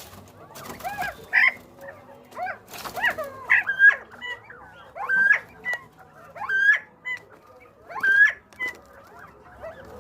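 Northern bobwhite quail calling over and over: loud whistled 'bob-white' calls that sweep sharply upward, the strongest coming about every one and a half seconds in the second half, with softer whistles between.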